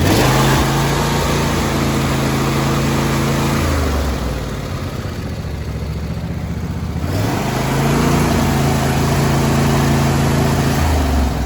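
John Deere D130 lawn tractor's two-cylinder Briggs & Stratton engine running. It is throttled up to a steady high speed, drops back to a lower idle about four seconds in, revs up again about seven seconds in, and falls back near the end.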